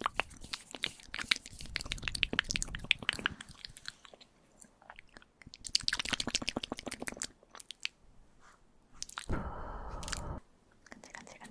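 ASMR mouth sounds close to the microphone: rapid wet clicks and smacks in two long runs. Near the end comes about a second of steadier rushing breath-like sound.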